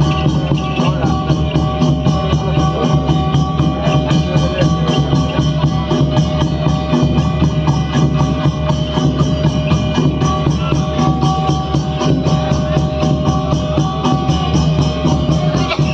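Instrumental folk music: dense, fast drumming with a steady beat under held melodic tones.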